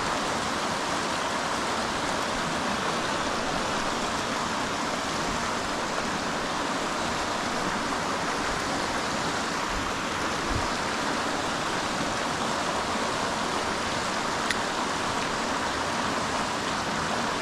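Stream water running with a steady rush. A single faint click comes about two-thirds of the way through.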